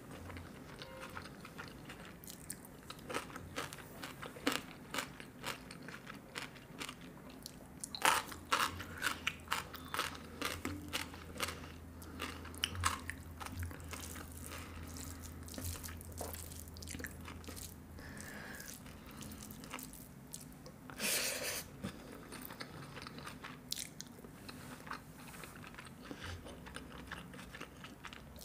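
Close-miked eating by hand: chewing and crunching mouthfuls of jeera rice, matar paneer and raw shredded cabbage, with many small wet mouth clicks. The crunching is loudest in two bursts, about eight seconds in and again past twenty seconds.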